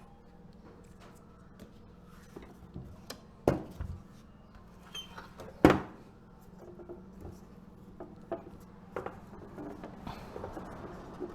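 Clicks and knocks of tools and small metal parts being handled, with two sharper knocks a couple of seconds apart, over a steady low hum.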